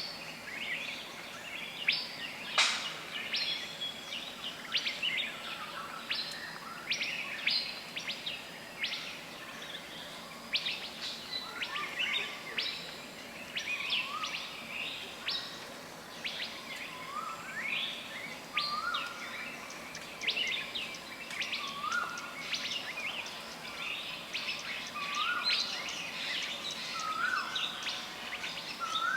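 Several birds calling at once: a dense run of short, high chirps, joined from about halfway by a lower upswept note repeated every second or two.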